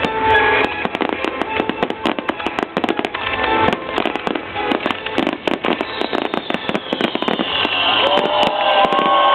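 Fireworks display: dense crackling and rapid popping reports, with music playing along and held tones growing stronger near the end.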